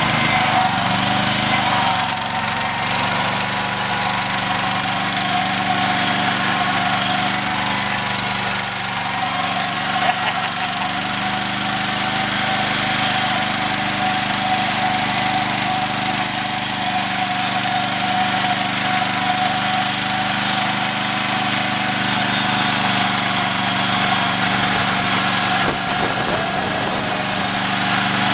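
Garden tractor's 16 hp Briggs & Stratton engine running steadily while driving along.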